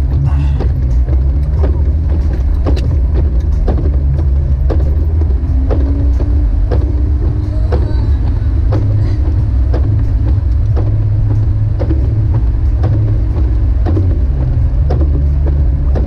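Jeep Wrangler YJ driving on snowy roads: a loud, steady low engine and road drone, with frequent short clicks and ticks scattered throughout.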